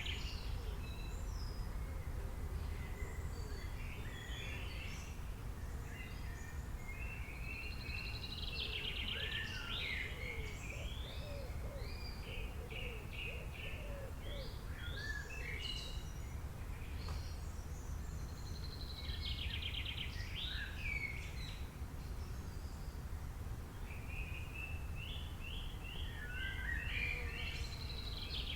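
Songbirds singing in repeated phrases of chirps and buzzy trills, with a fresh burst every several seconds. A steady low background rumble runs underneath.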